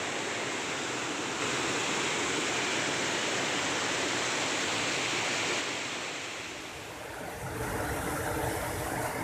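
Steady rushing noise of flowing water. It dips about six seconds in, and a low rumble rises near the end.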